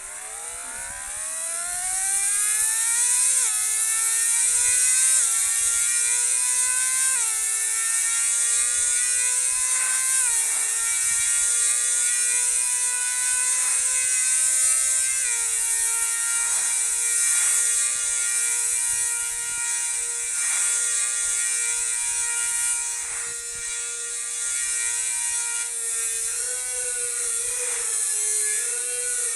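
A small motor whining steadily, its pitch climbing slowly and then dropping suddenly in steps several times before holding level, over a steady high hiss.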